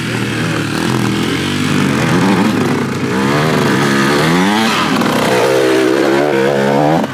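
Dirt bike engine revving, its pitch rising and falling several times, with the swings larger in the second half.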